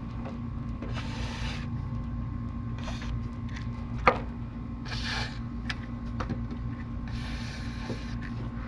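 Aerosol can of silicone spray lubricant hissing in four short bursts as it is sprayed onto dry, worn suspension control arm bushings, over a steady low hum, with one sharp click about four seconds in.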